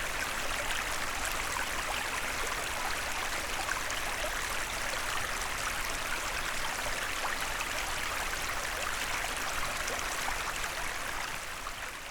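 Small forest stream: water running and trickling steadily, fading out near the end.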